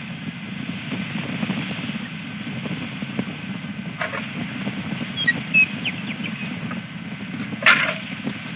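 Steady rushing background noise on an outdoor osprey nest camera's microphone, with a sharp knock about four seconds in and a louder one near the end, and a few brief faint high chirps between them.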